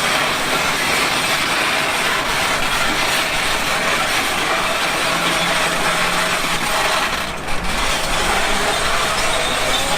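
Heavy construction machinery at work: a diesel engine running steadily under a dense mechanical clatter, with a brief dip about seven and a half seconds in.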